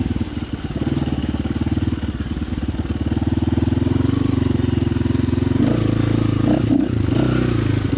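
Gas dirt bike engine running under way, the rapid firing pulses steady at first, then the note changes and drops about two-thirds of the way through. The engine is not yet warmed up.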